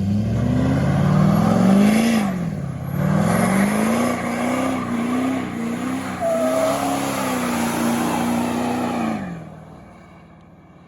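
A motor vehicle's engine revving: the pitch climbs, drops sharply, climbs again and then holds fairly steady with small wavers before falling away and fading near the end.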